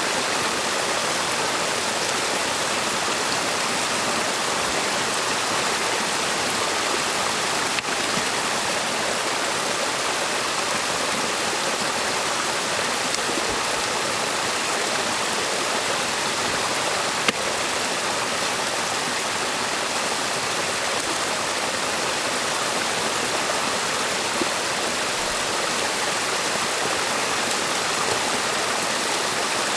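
Stream water rushing and splashing steadily, with a faint click about eight seconds in and another a little after seventeen seconds.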